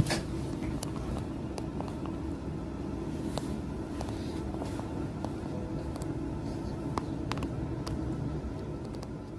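Train running, heard from inside the carriage: a steady low rumble with scattered sharp clicks and rattles.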